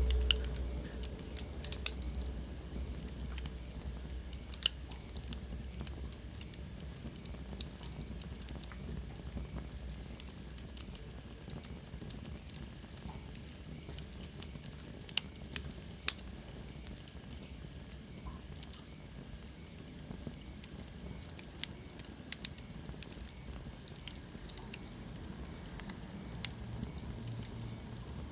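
Wood fire burning in a fireplace, crackling with irregular sharp pops over a steady low hiss, with a low rumble that is strongest in the first few seconds.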